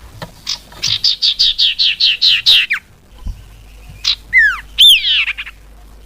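Common iora (sirtu/cipoh) calling: a fast two-second trill of about a dozen high notes ending in a downward slide, then a few loud whistled notes that slur downward.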